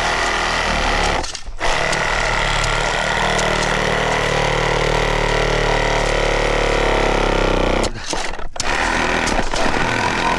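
Engine running loudly and steadily, cutting out briefly twice: once about a second and a half in, and again around eight seconds.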